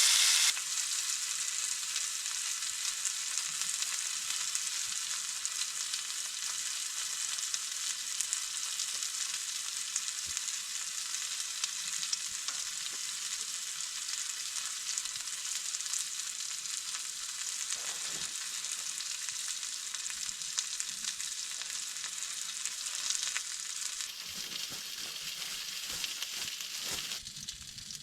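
Food frying in a pan, a steady crackling sizzle that thins out near the end.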